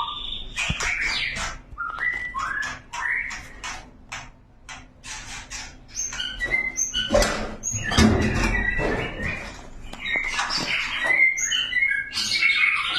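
Young murai songbird calling in agitated bursts: short chirps, clicks and whistled notes, with a loud noisy burst about seven to nine seconds in.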